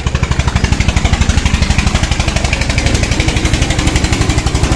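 Hero Honda Splendor's single-cylinder four-stroke motorcycle engine idling steadily just after starting, with an even, rapid putter. It has a light rattle that the mechanic puts down to a worn magneto rotor.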